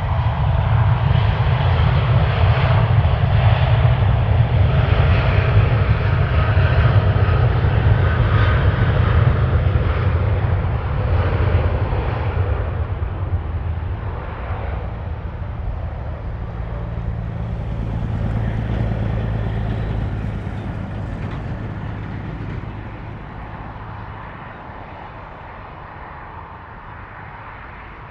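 Jet airliner engines rumbling loudly with a steady whine as the aircraft passes, swelling once more, then fading away over the last several seconds.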